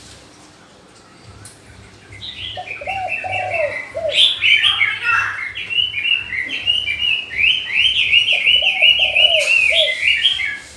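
Birds singing early in the morning. Quiet for about the first two seconds, then a fast, continuous run of high chirping notes. Twice, a short group of low cooing notes sounds beneath it.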